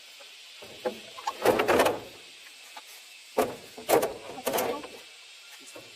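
A few short, rough scraping or sliding sounds: a longer one about a second and a half in, then three shorter ones close together a couple of seconds later.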